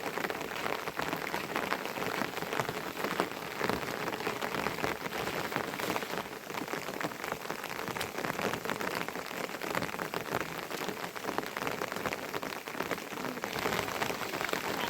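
Steady rain falling, a dense patter of individual drops striking surfaces.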